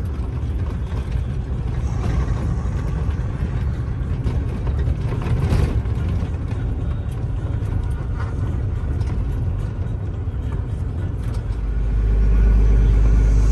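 Semi-truck engine and road noise heard from inside the cab while driving downhill: a steady low rumble that gets louder about a second and a half before the end.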